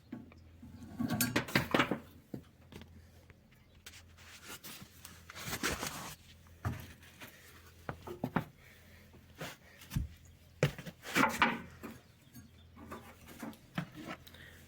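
Scraping, clatter and knocks of a broken, worn-out V-belt being worked off the blower and motor pulleys of a packaged air-conditioning unit by hand. The noise comes in three main bursts, about a second in, mid-way and near the end, with smaller knocks between, over a steady low hum.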